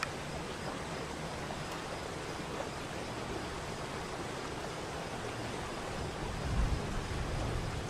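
Waterfall water rushing as a steady, even roar. About six seconds in, a low rumbling swells beneath it.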